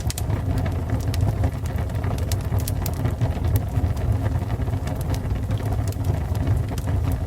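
Fire burning: a steady low rumble of flames with irregular sharp crackles and pops.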